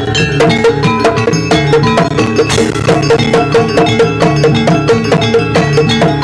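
Jaranan gamelan ensemble playing dance music: drum strokes and struck metallophone and gong notes over a quick, steady beat of about four strokes a second.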